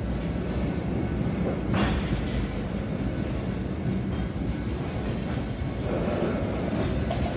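Loaded hopper cars of a Union Pacific gravel train rolling past, a steady rumble of steel wheels on the rails. A sharp knock comes about two seconds in and another near the end.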